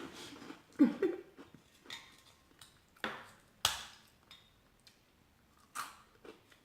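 Eating sounds: a few sharp clicks and taps of cutlery against a plate, spaced out, the loudest about three and a half seconds in.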